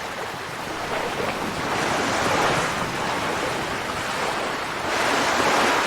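Ocean water washing and surging, swelling about two seconds in and again near the end.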